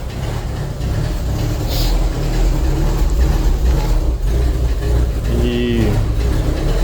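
Ford Corcel Belina's four-cylinder engine idling steadily as it warms up.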